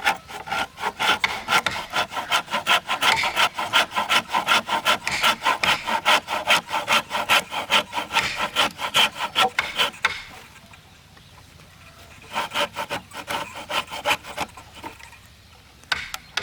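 Wood being sawn by hand: rapid, even back-and-forth strokes that stop about ten seconds in, followed by two shorter bursts of strokes.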